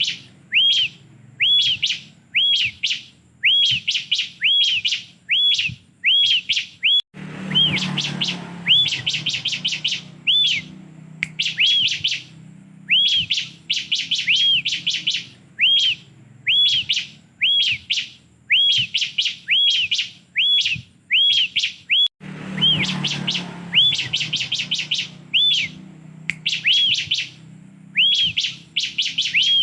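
Bar-winged prinia (ciblek) singing, repeating a phrase about once a second: a short arched whistle followed by a quick run of sharp ticks. A low hum runs underneath, with a brief burst of noise twice.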